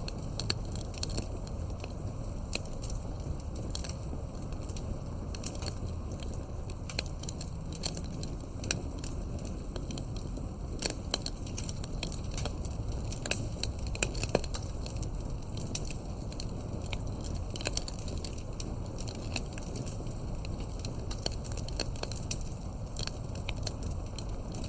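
Campfire crackling: frequent irregular sharp pops and snaps over a steady low rumble of the burning fire.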